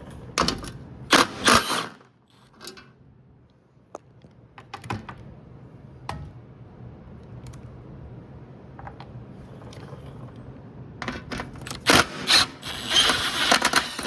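Hand tools working on a pickup's bed-mount bolts: scattered metallic clicks and knocks, with louder clusters of clanks about a second in and again near the end.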